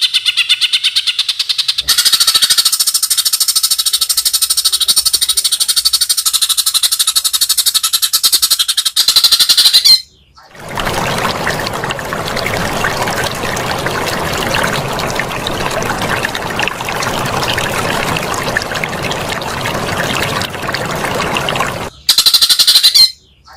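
Songbird delivering very fast, rapidly repeated high trilling notes for about ten seconds, broken by a brief gap and then a long even rushing noise for about eleven seconds, before the fast trill returns near the end.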